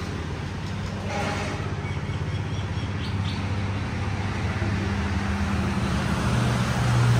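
Vehicle engine idling steadily, a low hum that grows a little stronger near the end, with street traffic noise behind it.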